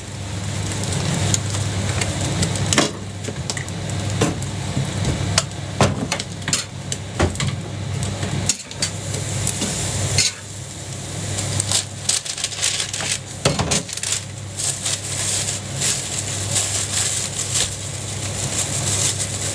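Metal utensils knocking and scraping on a pancake griddle, with sizzling, over a steady low hum.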